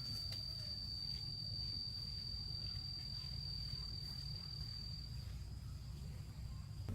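An insect trilling steadily on one high pitch, growing fainter about five seconds in, over a constant low rumble.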